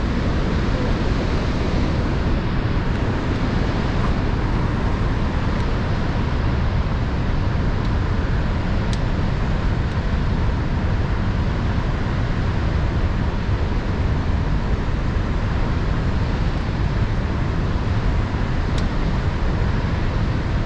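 Steady low road and engine rumble of a moving car, even throughout, with a couple of faint ticks.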